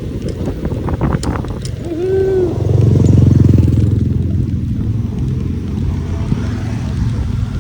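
Wind rumbling on the microphone of a bike moving fast, swelling loudest midway through. There are a few sharp clicks a little over a second in and a short rising-and-falling tone about two seconds in.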